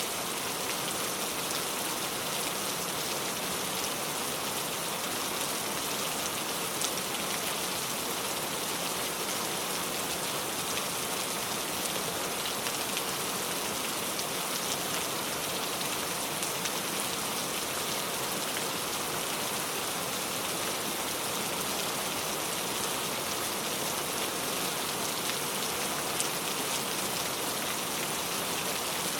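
Steady rainfall, an even hiss of many drops with a few louder individual drop ticks.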